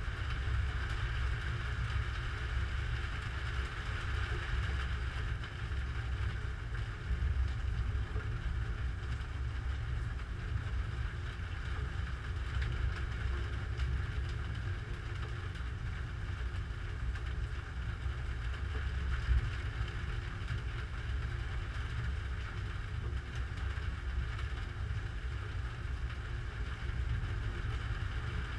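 Storm wind buffeting a GoPro Hero3 Black's microphone: a steady low rumble with no distinct thunderclaps.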